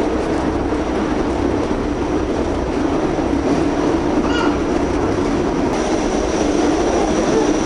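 A steady, even rumble of rolling motion with no breaks in it.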